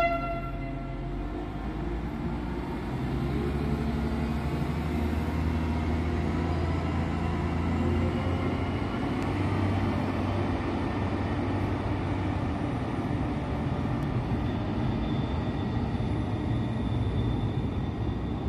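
Diesel multiple unit 711-003/004 pulling out of the station, its diesel engines running steadily as it draws away, a little louder from about three seconds in.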